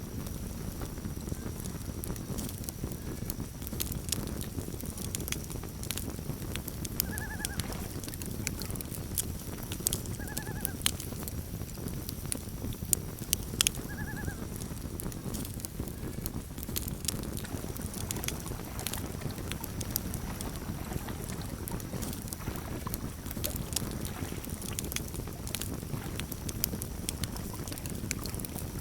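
Campfire crackling: sharp pops and snaps scattered over a steady low rumble of burning wood. Three short, rising-and-falling calls from a bird come about seven, ten and fourteen seconds in.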